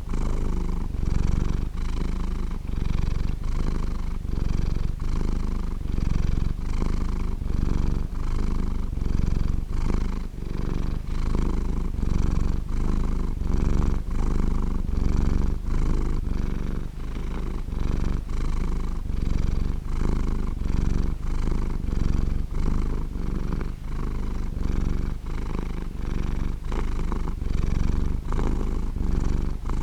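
Domestic cat purring steadily and close up, a low rumble that swells and eases in an even rhythm with each breath in and out, about every half second to second.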